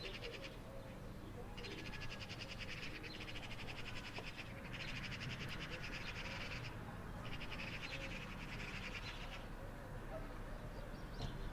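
A high, rapid trill, repeated in four bouts of about two seconds each with short gaps, from a small animal (bird or insect), over a low steady hum.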